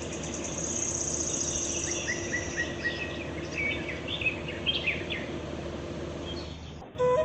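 Birds chirping and trilling, many short calls, over a steady background hiss; the sound cuts off abruptly near the end.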